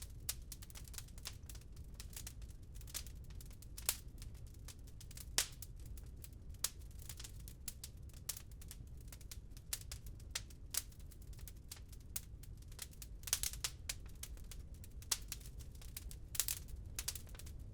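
Wood fire crackling in a fireplace: irregular sharp snaps and pops, a few louder ones scattered through, over a low steady rumble.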